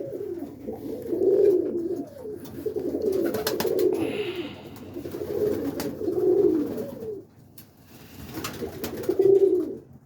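Domestic pigeons cooing, several repeated coo phrases one after another, with a few faint clicks in between.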